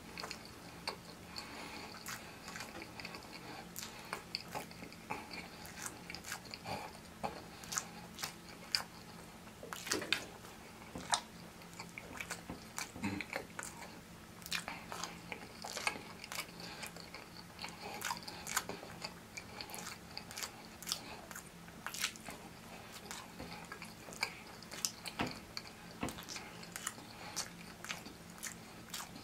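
Close-miked chewing and biting of syrup-dipped pancake-wrapped sausage, with many short wet mouth clicks at an irregular pace. A faint steady low hum runs underneath.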